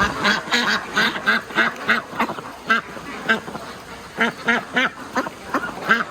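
Ducks quacking: a quick run of about four quacks a second for the first two seconds, then scattered quacks.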